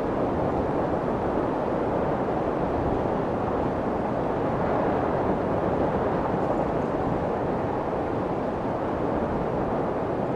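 Steady white noise for soothing a baby, a constant hiss weighted toward the low-mid range and muffled in the highs, without change.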